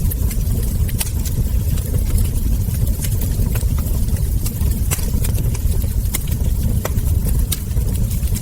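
Wood fire crackling: irregular sharp pops and snaps from burning logs and embers, several a second, over a steady low rumble of the burning fire.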